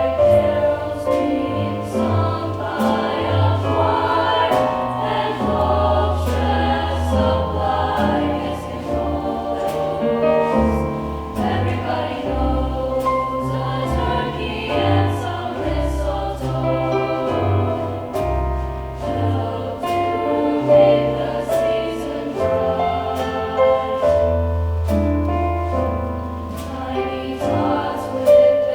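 High school choir singing a Christmas song with instrumental accompaniment, including sustained low bass notes.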